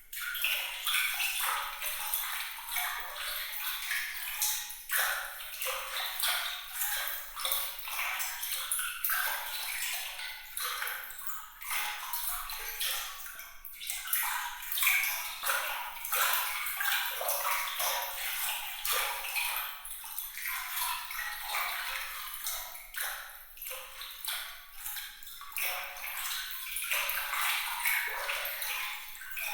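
Water trickling and splashing steadily, bright and high-pitched, with a constant patter of small droplet plinks and no deep rumble.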